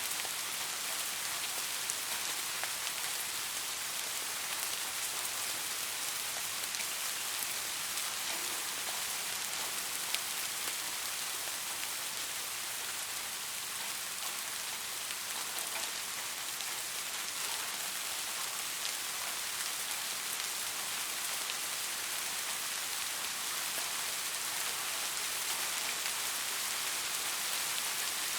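Steady rain falling on a surface: an even hiss with many small, close-spaced drop patters and no let-up.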